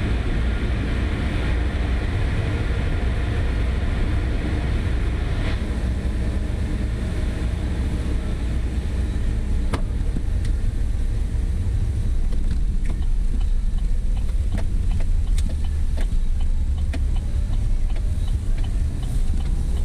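Steady low road and engine rumble heard from inside a moving truck's cab, with a few light clicks in the second half.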